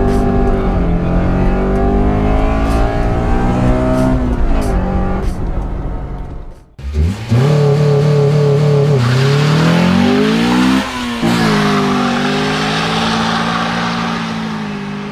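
Honda Civic B16A1 VTEC four-cylinder accelerating hard from inside the cabin, its revs rising and falling with the shifts. After a sudden cut, heard from the roadside, the engine is held high for a launch, then the tyres spin and squeal as it pulls away and shifts once more, fading as it goes down the road.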